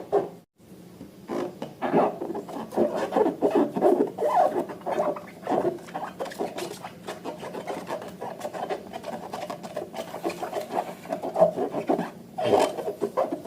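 Slime being squished and worked by hand: a dense, irregular rubbing and crackling, with short breaks about half a second in and near the end.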